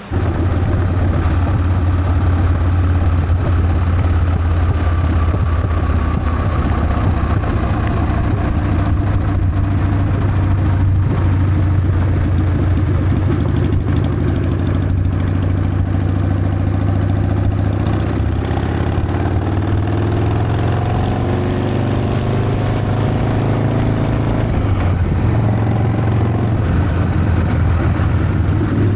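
Harley-Davidson Sportster's V-twin engine running under way, with its pitch rising as it accelerates about two-thirds of the way through.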